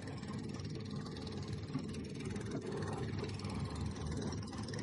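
Fishing boat's engine running steadily, a low hum under a faint hiss.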